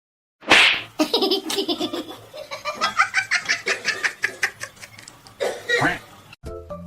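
A sudden loud burst, then a person laughing hard in quick repeated bursts for several seconds. It cuts off near the end, where bouncy music begins.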